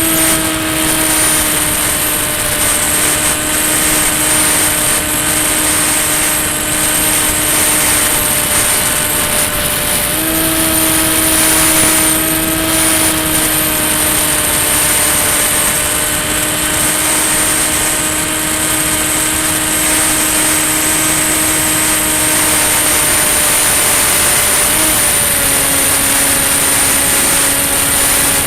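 Electric pusher motor and propeller of a Volantex Ranger EX FPV plane in flight: a steady droning whine over wind rush. The pitch drops slightly, then steps up about ten seconds in and steps down again near the end as the throttle changes.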